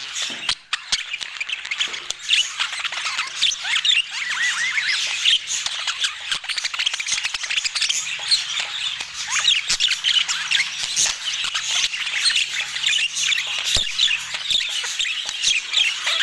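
A flock of budgerigars chattering: many rapid chirps, warbles and squawks overlapping without pause, with a few sharp clicks.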